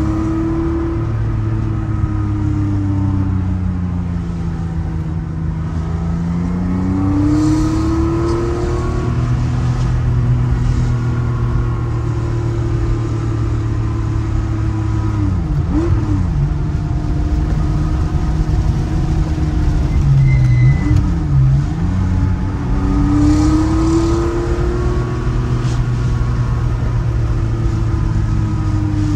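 Air-cooled flat-six of a 1984 Porsche 911 Carrera, built out to 3.5 litres with twin-plug ignition, heard from inside the cabin under way. Revs climb and fall back several times as it pulls through the gears, with a few quick drops and recoveries in pitch past the middle.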